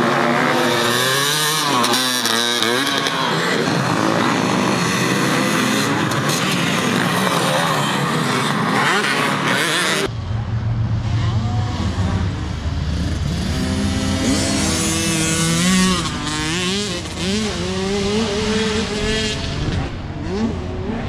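Several motocross bikes racing, their engines revving up and down as they work the throttle and shift gears. About halfway through the sound switches abruptly to another stretch of bikes racing.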